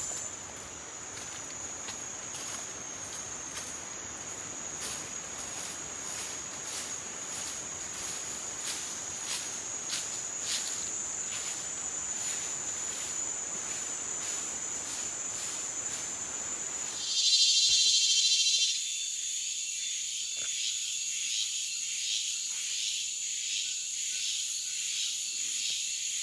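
A chorus of night insects, crickets among them, trilling steadily at a high pitch over a soft hiss. About two-thirds of the way in, the hiss stops abruptly and a louder buzzing insect call rises for a second or two, then the high trilling carries on.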